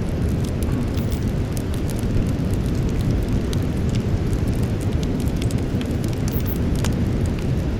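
Campfire burning with a steady low roar of flames and scattered sharp crackles and pops from the burning wood, several a second.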